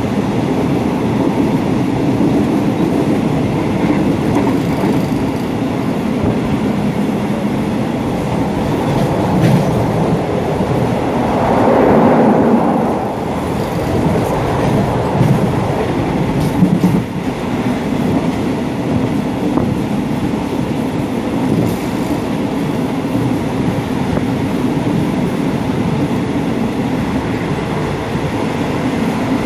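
Passenger train running along the track, heard from inside an open-windowed carriage: a steady rumble of wheels on rail with some rattle, and a brief louder swell about twelve seconds in.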